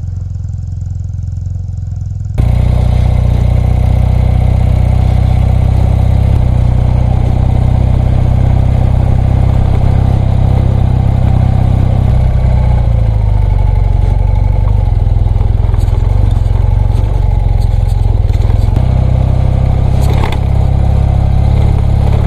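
BMW R100RS air-cooled flat-twin engine running as the motorcycle is ridden, getting suddenly louder about two seconds in. The engine note shifts a couple of times, and there is a brief sharp click near the end.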